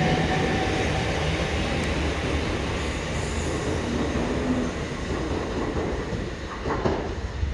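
Passenger train running on the rails at the station, a steady rumble and rail noise that slowly fades. A faint steady whine dies away in the first half second, and there is a short clunk near the end.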